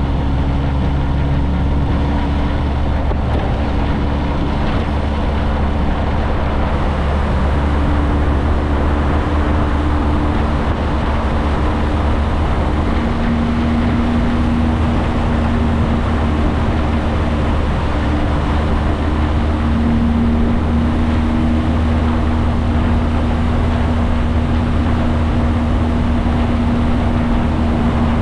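Motorcycle engine running while riding, over steady wind and road noise, its pitch shifting slightly as the speed changes.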